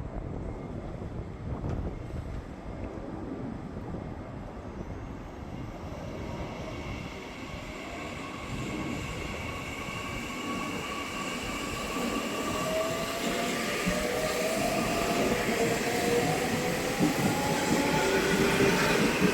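Nishitetsu electric commuter train approaching and passing: rail and running noise grows steadily louder. Whining tones come in partway through and slowly shift in pitch as it nears.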